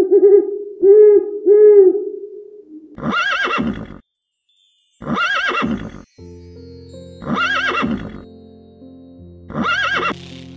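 An owl hooting three times, the loudest sound. Then a horse whinnying four times, about two seconds apart. Soft background music with held notes comes in about midway.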